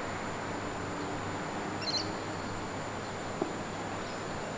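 Steady open-air background noise at a cricket ground, with a single brief, high bird chirp about two seconds in.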